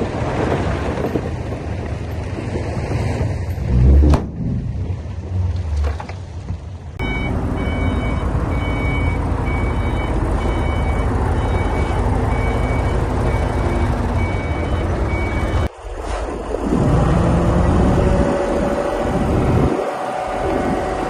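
Heavy earthmoving machinery, a bulldozer or dump truck, with its diesel engine running hard. A reversing alarm beeps about once a second through the middle stretch. Near the end the engine revs up and down.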